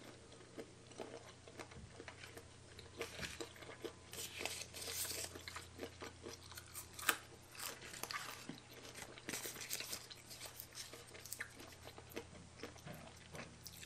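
A person biting and chewing fresh green leaves and raw vegetables from a baby cuttlefish salad: irregular crisp crunches and wet chewing.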